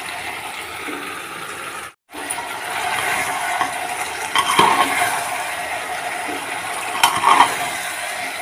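Cauliflower and potatoes sizzling in hot oil and masala in an aluminium pressure cooker, stirred with a metal ladle that scrapes and clinks against the pot a few times in the second half. The sound cuts out for a moment about two seconds in.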